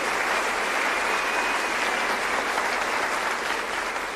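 Crowd applauding steadily, fading toward the end.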